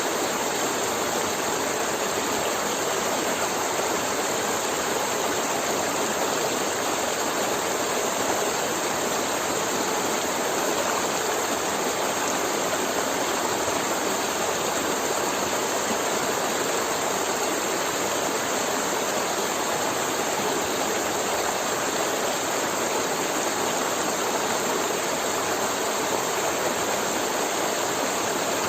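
River water flowing and rushing over rocks, a steady, even sound with no breaks.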